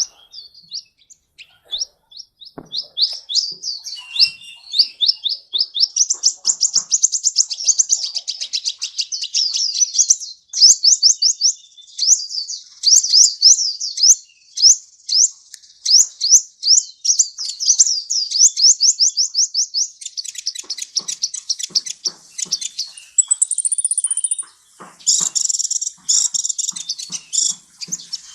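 Sunbird (the 'kolibri' of Indonesian bird-keeping) singing: fast runs of high, thin chirps and trills, repeated almost without pause, with a brief high whistle about two-thirds of the way through.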